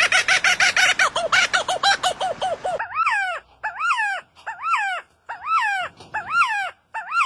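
A bird calling: a fast run of short pitched notes, about eight a second, then, about three seconds in, a slower series of separate calls that each rise and fall in pitch, roughly one every two-thirds of a second.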